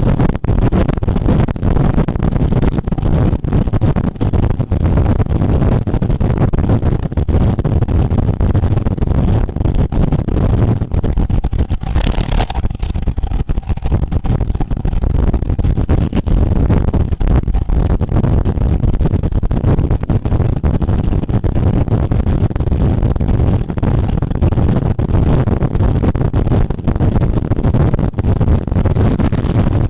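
Wind buffeting a camera microphone at racing speed on a road bike: a loud, steady low rumble with constant crackle, and a brief hiss about twelve seconds in.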